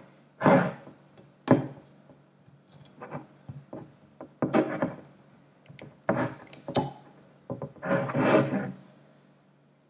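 Handling noise from a bourbon bottle and glass: a run of short, irregular rubs, scrapes and knocks, with a longer scrape near the end.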